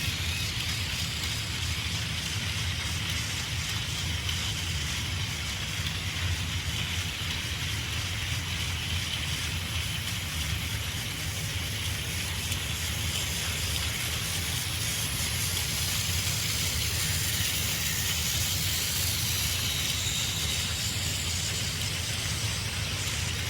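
Battery-powered Plarail toy Thomas locomotive pulling a long train of cars along plastic track: a steady motor whir with the rattle of wheels over the rails.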